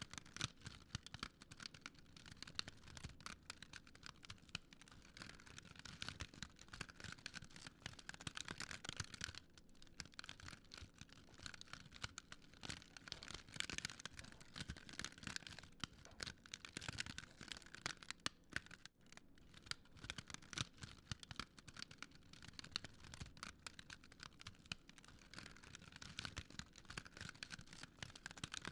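Wood fire crackling steadily, with many small irregular snaps over a soft hiss.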